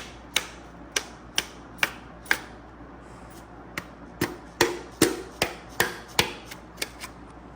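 Repeated sharp taps of a hammer, about two a second with a pause near the middle, driving a piston with its rings squeezed in a ring compressor down into an engine block's cylinder bore.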